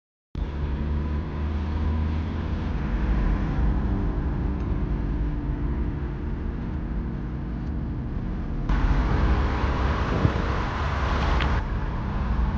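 Inside a first-generation Honda CR-V driving along, its B20 four-cylinder engine and the road making a steady low rumble. Near the end a louder rushing noise swells for about three seconds and then drops away.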